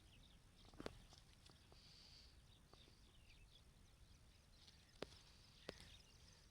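Very faint bird chirps with three sharp clicks, one about a second in and two near the end.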